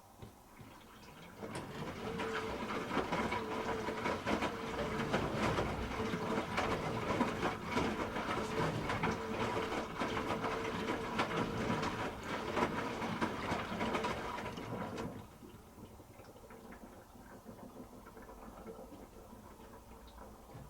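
Hoover H-Wash 300 Plus washing machine running: about a second in it grows loud with a steady hum and many quick clicks and knocks, and it drops back to a quieter run about fifteen seconds in.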